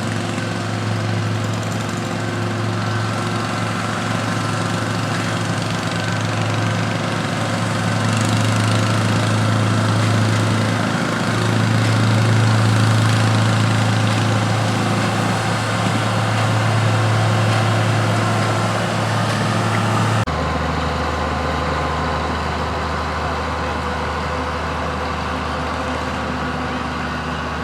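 Small garden-tractor engine running at a steady pitch, a little louder around the middle. About twenty seconds in the sound cuts abruptly to a lower, steady engine hum.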